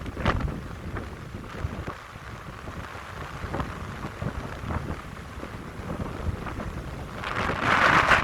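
Wind blowing through a pine grove, gusting unevenly, with low rumbling buffets of wind on the microphone. A stronger gust swells up near the end.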